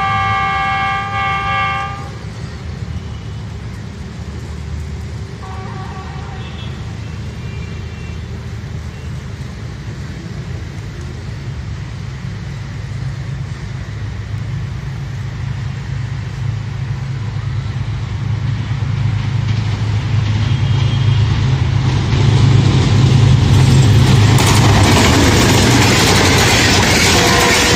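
Diesel-electric locomotive (Pakistan Railways GEU-20 class, a GE U20C) hauling a passenger train: its multi-tone horn sounds and cuts off about two seconds in, with a faint short toot a few seconds later. The locomotive's low engine rumble then grows steadily louder as it approaches, and near the end the loud rush and clatter of wheels on rails takes over as the locomotive and coaches pass close by.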